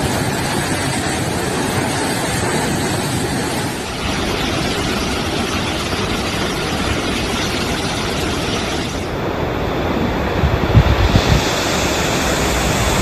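Steady rushing noise of fast-flowing floodwater. Its character changes abruptly about 4 and 9 seconds in, and there are a few low thuds near the end.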